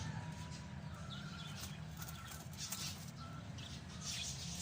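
A flock of pet lovebirds chirping rapidly and continuously in short, high calls, over a steady low hum.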